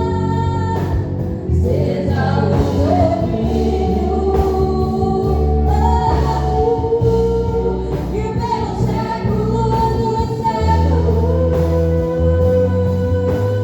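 Gospel praise music performed live, with singing over a steady bass and sustained chords.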